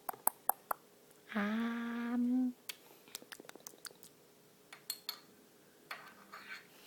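A voice humming one held 'mmm' note for about a second, with a scatter of small sharp clicks and taps before and after it.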